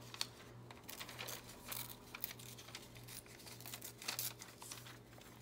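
Paper rustling and crinkling in short, irregular strokes as small pieces of torn paper are handled, over a steady low hum.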